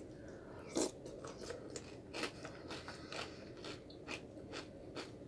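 Someone chewing crunchy fried bits in egg drop soup close to the microphone: a run of irregular crisp crunches, the loudest about a second in.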